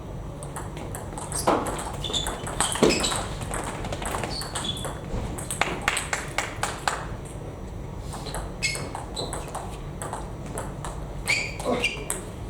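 Table tennis rally: the celluloid-type plastic ball clicking off bats and table in quick runs, with a few short high squeaks in between.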